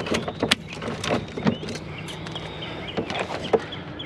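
A series of sharp clicks and knocks from side cutters snipping through an electrical cord, irregularly spaced, over a steady low hum.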